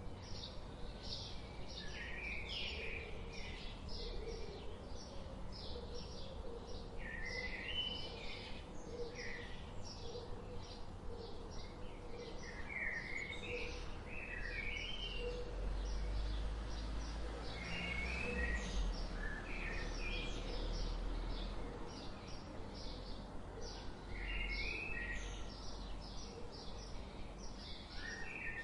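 Several birds chirping and singing together: rapid short high chirps, several a second, mixed with repeated warbling phrases that rise and fall. A low rumble swells under them through the middle and fades again.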